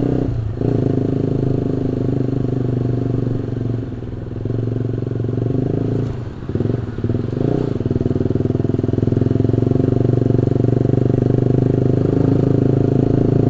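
Honda CB150R's single-cylinder engine running steadily while the motorcycle is ridden, heard from the rider's seat. The engine note dips briefly about half a second in and again around six to seven seconds in, then runs on evenly.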